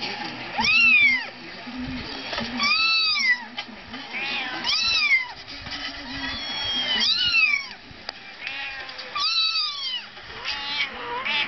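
Persian cat meowing repeatedly, about five loud meows a couple of seconds apart, each rising and then falling in pitch, with a few fainter calls between them.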